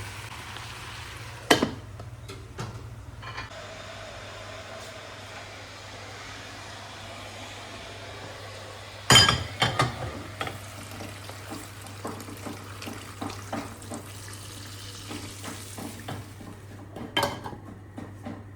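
Kitchen work: dishes and utensils clinking now and then, with a louder cluster of clinks midway, over a steady low hum and faint hiss.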